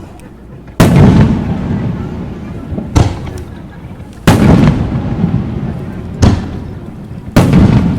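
Aerial fireworks shells bursting: five loud booms at irregular intervals of one to two seconds. The three biggest booms each trail off in a long rolling rumble; the other two are shorter, sharper cracks.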